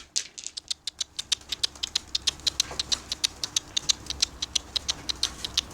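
A quick, even run of light, dry clicks, about eight or nine a second.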